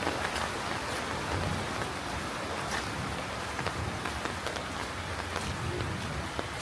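Heavy rain falling steadily, a dense hiss with many sharp drop taps scattered through it.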